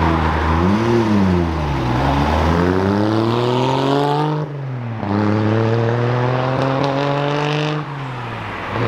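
Car engine accelerating hard away: a quick blip of the throttle about a second in, then the revs climb steadily, drop sharply at a gear change about halfway through, climb again and drop at a second gear change near the end.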